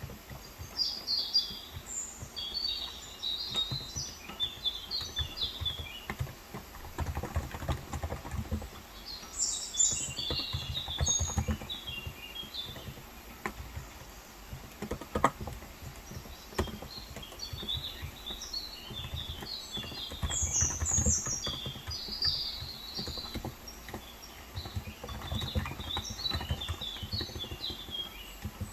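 Typing on a Cox Endeavour electro-capacitive tenkeyless keyboard with 35 g switches: a continuous run of soft, irregular keystrokes. Small birds chirp in short clusters several times over it.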